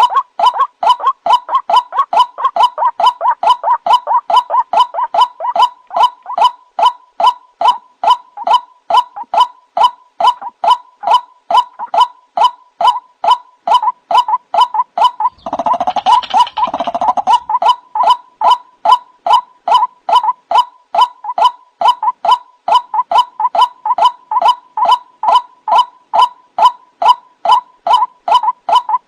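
White-breasted waterhen calling over and over, a rapid, rhythmic series of short notes at about three a second; about halfway through there is a louder, rougher, gurgling stretch of about two seconds. This is a recorded lure call used to draw waterhens in.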